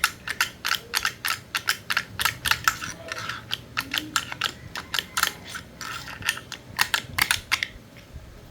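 Hand tools working on metal machine parts: a rapid, irregular run of sharp clicks, several a second, that stops about a second before the end.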